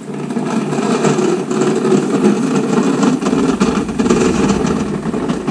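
Car engine running loud with a rough, pulsing exhaust note. It comes in suddenly, builds over the first couple of seconds, and holds steady.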